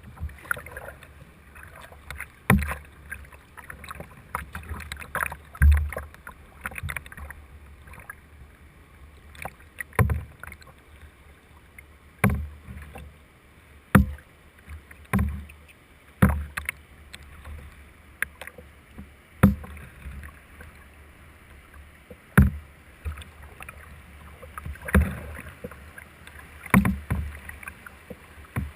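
Kayak paddling on moving water: sharp splashes and knocks of paddle strokes every second or two, some with a heavy low thud, over a low steady wash of water.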